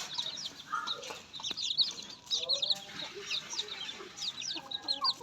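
A flock of farm poultry calling: chickens clucking beneath a dense run of quick, high chirps.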